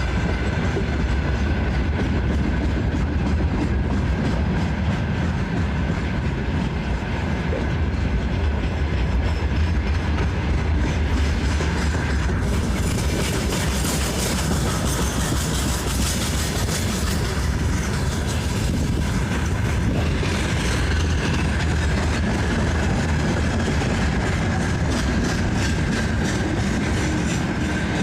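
Freight train wagons rolling past with a steady rumble and the clickety-clack of wheels over the rail joints, a harsher hiss joining for a few seconds in the middle.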